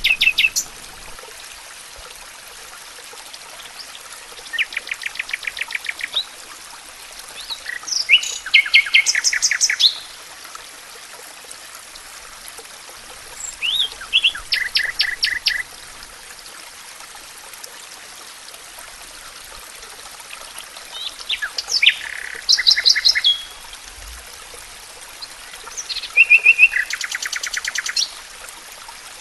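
A songbird singing in repeated phrases, five of them, each a two- to three-second run of rapid repeated high notes. Beneath the song is a steady hiss of running water.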